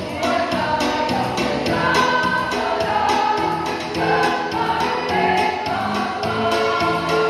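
Choir singing sustained, multi-part lines over an accompaniment with a steady percussive beat.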